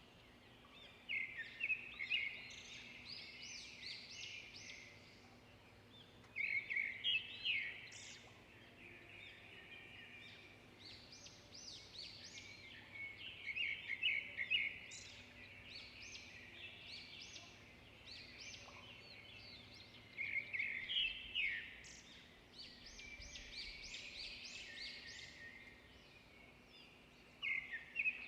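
Songbirds singing: a burst of quick chirping notes about every five to seven seconds, with quieter twittering in between.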